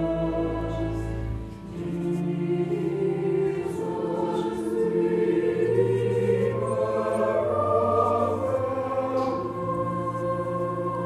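Choir singing church music over held, sustained chords. A deep bass note underneath drops out about a second and a half in.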